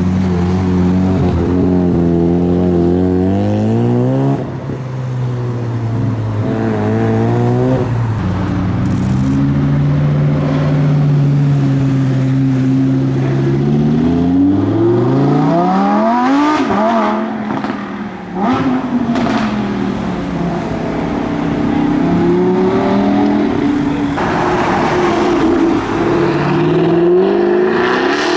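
Sports car engines revving and accelerating away one after another, likely led by a Mazda RX-7's rotary engine. The engine pitch climbs and drops repeatedly, with sharp rising revs about four seconds in, again around fifteen seconds in, and near the end.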